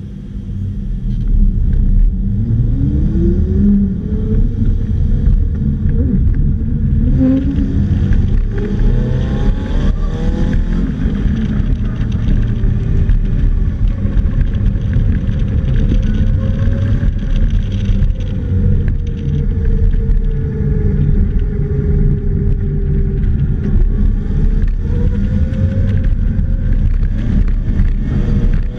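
Polaris Slingshot's four-cylinder engine accelerating away from a standstill, its pitch climbing over the first few seconds, dropping back and climbing again, then rising and falling as it is driven through the course. Heavy wind and road rumble from the open cockpit lie under the engine throughout.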